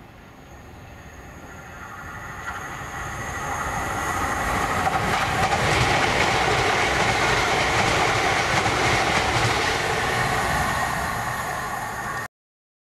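A train approaching and running past, getting louder over the first five seconds and then staying loud, with rapid clicks from its wheels on the rails. The sound cuts off abruptly near the end.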